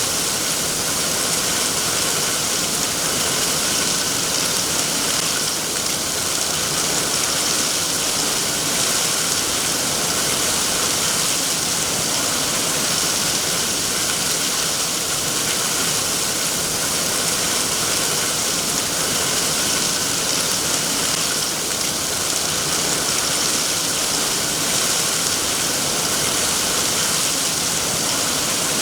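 Steady rain falling, an even hiss with no distinct drops or pauses.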